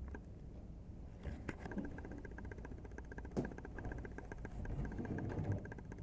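Faint handling noise over a low rumble, with two light clicks, about a second and a half and three and a half seconds in, as the unplugged box fan or the camera is moved.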